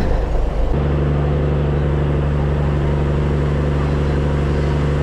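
Ferry engine running with a steady low drone, which sets in abruptly about a second in after a rougher rumble.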